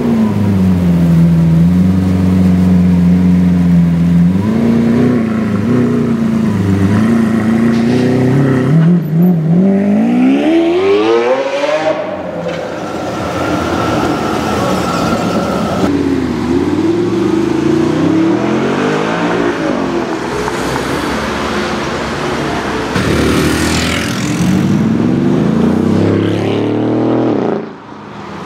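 Lamborghini Aventador's V12 engine running at low revs, then revving up in a sharp rising pull about ten seconds in. After a cut, other car engines accelerate and pass in city street traffic.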